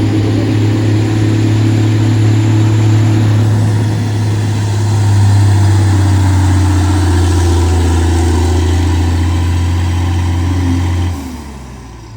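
Diesel pickup truck engine running hard and steady under load on a pulling track, held at high revs. The engine drops away sharply about eleven seconds in.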